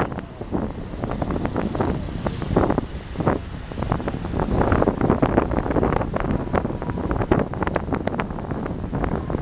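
Wind buffeting the microphone in uneven gusts, a rough low rumble with frequent short pops.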